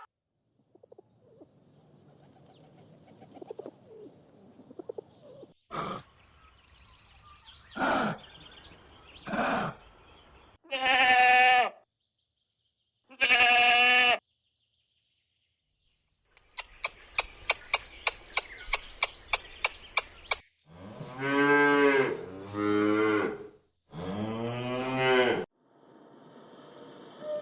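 A sequence of separate animal calls, edited one after another. There are short calls, then two pitched calls of about a second each, a rapid run of about four clicks a second in the middle, and two longer, lower calls near the end.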